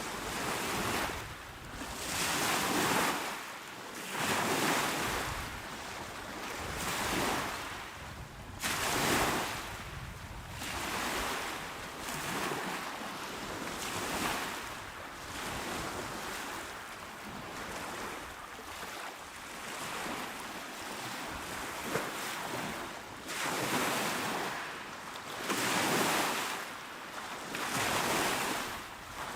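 Small, calm sea waves washing onto a shore, each breaking and receding in a hiss that swells and fades about every two seconds.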